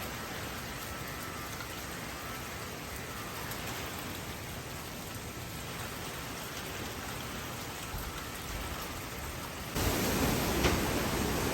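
Steady rain falling, an even hiss with no distinct drops standing out, that turns abruptly louder about ten seconds in.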